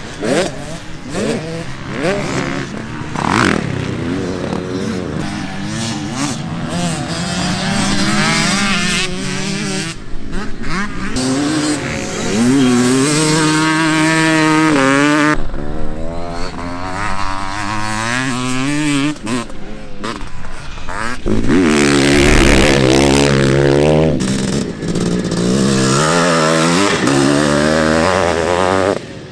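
Vintage motocross dirt bikes running on the track, their engines revving up and down with throttle and gear changes; at times several bikes are heard at once.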